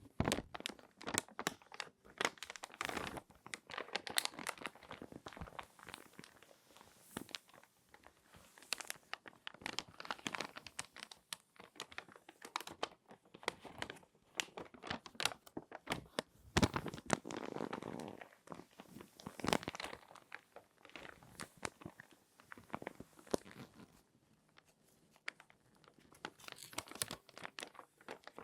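Crinkly glossy magazine pages being handled and folded close up, a dense run of irregular paper crinkles and crackles that eases off for a couple of seconds near the end.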